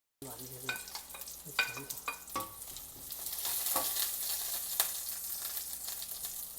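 Ginger, onions and dried chili peppers sizzling in oil in a frying pan, with a metal spatula clinking and scraping against the pan as they are stir-fried. The sound starts suddenly, with several sharp clinks in the first couple of seconds.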